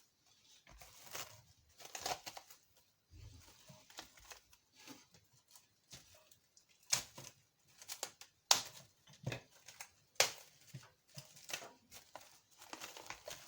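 Plastic cling film being pulled off its roll and stretched and pressed over a dish, making a string of irregular crackles and rasps.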